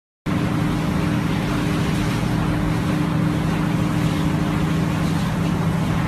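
Vehicle engine running steadily, a low hum under a constant hiss, cutting in abruptly just after the start.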